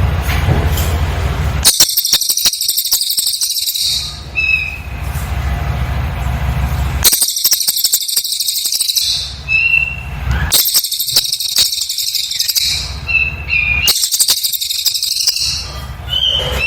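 Cililin bird song: four bursts of very fast, high-pitched rapid-fire chattering, each about two seconds long, separated by regular pauses. Short whistled notes follow some of the bursts.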